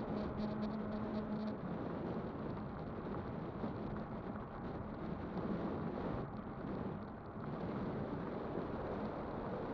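Riding noise from an electric bike: wind on the microphone and road rumble, with a steady motor hum that cuts off about a second and a half in.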